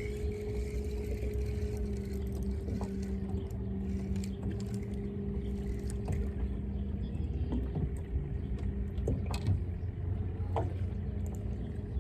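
Boat motor running steadily with a low, even hum, with a few light clicks and knocks scattered through it.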